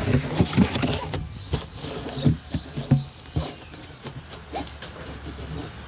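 A run of irregular knocks, clicks and rustling, densest in the first three seconds and thinning out after that.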